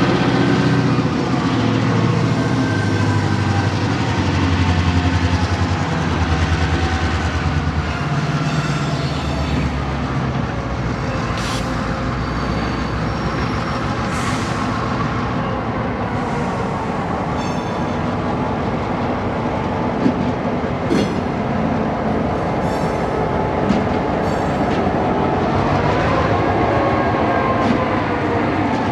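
EMD GP38-2 locomotive's roots-blown 16-cylinder 645 diesel working hard under heavy load as it shoves a cut of freight cars. A high squeal wavers in pitch above the engine, and a few sharp clanks come in the second half.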